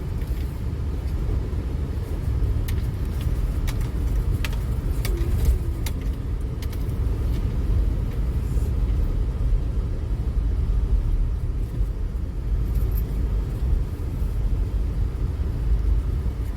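Steady low rumble of road and engine noise heard inside the cabin of a truck driving in four-wheel drive over snowy streets, with a few faint clicks and knocks.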